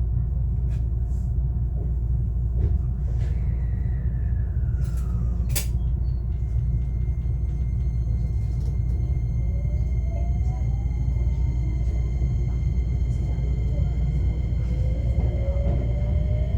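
Cabin running sound of a JR West 125-series electric railcar: a steady low rumble with a sharp click about five and a half seconds in. In the second half, the whine of its Toyo IGBT VVVF inverter and traction motors rises slowly in pitch as the train accelerates.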